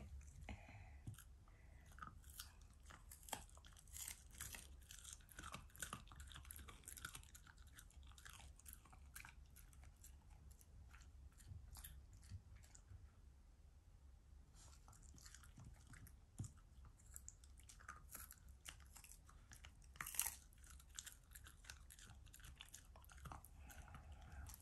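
Faint chewing and crunching of food: irregular small crisp clicks and crunches, a little denser about twenty seconds in.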